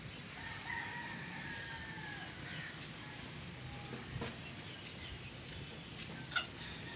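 Domestic fowl calling: one long held call, falling slightly in pitch, lasting nearly two seconds. Near the end comes a short, sharp call, the loudest sound here.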